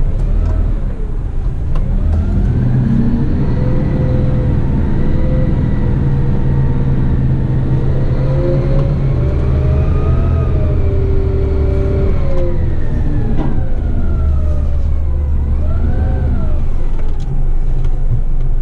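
Diesel engine of an eight-wheel twin-steer waste truck running under way over a steady low rumble. It climbs slowly in pitch for several seconds as the truck gathers speed, then winds back down, with a brief rise and fall again near the end.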